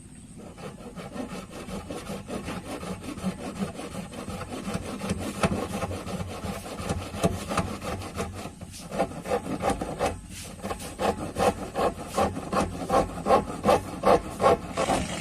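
Hand saw cutting through a plastic drum in steady back-and-forth strokes, getting louder and settling into about two strokes a second.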